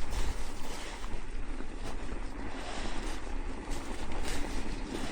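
Wind rushing over the microphone with the rough, steady noise of an electric bike's tyres churning through deep snow.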